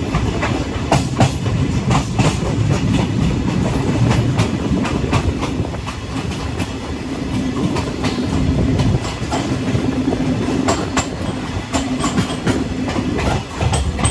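Passenger express train rumbling along the rails as it runs into the station, with irregular clicks of the wheels over rail joints and points.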